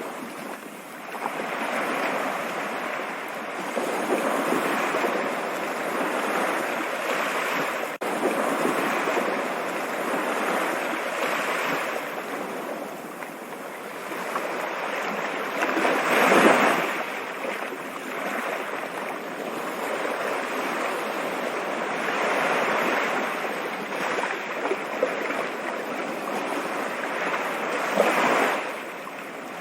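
Stream water flowing, a steady rushing hiss that swells louder briefly about halfway through and again near the end.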